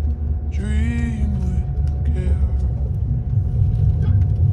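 Steady low rumble of a passenger train running, heard inside the carriage, with a brief wavering voice about a second in.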